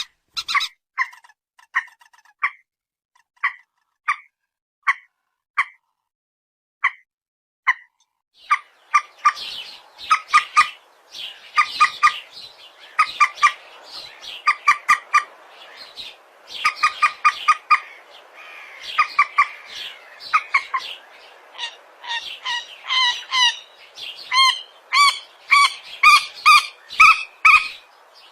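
Recorded calls of a rice-field bird of the rail family, played as a lure call. Short call notes come singly at an even spacing for the first several seconds; from about nine seconds in they turn into quick runs of repeated notes over a background hiss.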